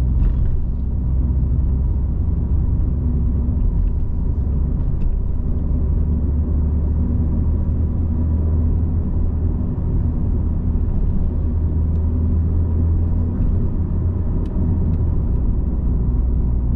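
Alfa Romeo 147's 2.0 Twin Spark four-cylinder engine and road noise heard from inside the car while driving, a steady low rumble.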